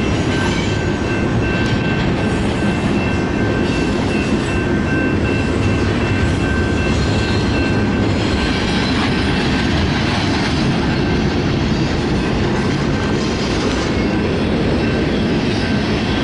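A train rolling steadily past at close range: continuous loud wheel-and-rail noise, with a thin, steady high wheel squeal that fades out about ten seconds in.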